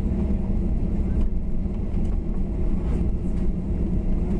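Steady low rumble inside the cabin of a Boeing 737-800 taxiing after landing, its engines running at idle, with a few faint steady hums.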